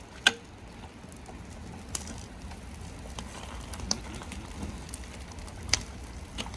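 Campfire burning with a steady low rush and scattered crackles, with four sharp pops spread irregularly through it.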